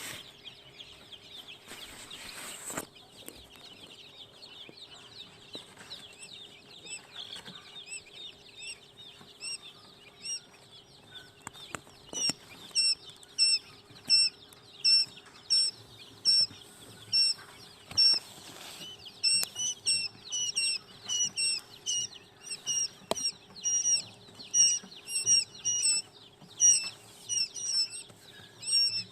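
Chicks peeping: a chorus of many faint, high cheeps, then from about twelve seconds in loud, repeated high peeps, roughly one or two a second. A brief rustle about two seconds in.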